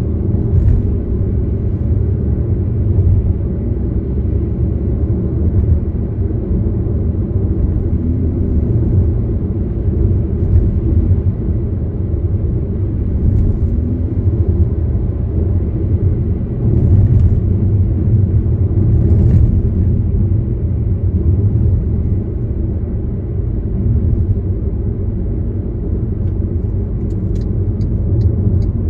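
Steady low rumble of a car driving along, road and engine noise.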